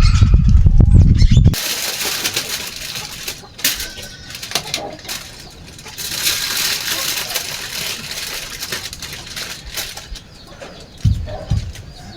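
Outdoor ambience: a loud low rumble for the first second and a half, then a hissy, rustling background with scattered clicks and birds calling, and a short low rumble again near the end.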